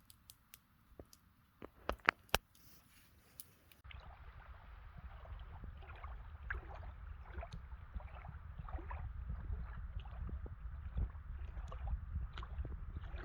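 Rain pattering on a hammock tarp. At first scattered drops tick sharply, a few of them loud. After an abrupt change about four seconds in, the pattering turns denser over a steady low rumble.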